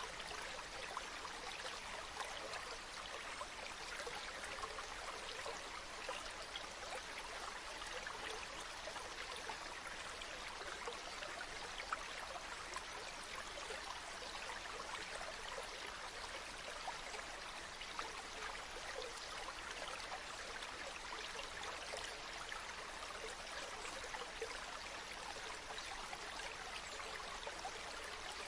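Small stream flowing steadily, with continuous trickling and bubbling of water over a shallow bed.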